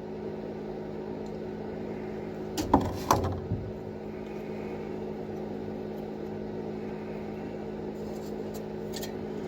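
Steady electric hum of a small heater in a cold camper, with a quick cluster of clicks and clatters about two and a half seconds in and fainter ticks near the end. These come from working a cold lighter and handling a small candle lantern.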